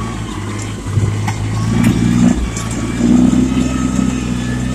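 Yanmar compact tractor's diesel engine running under load while the tractor turns tightly. The engine note swells about a second in and again about three seconds in.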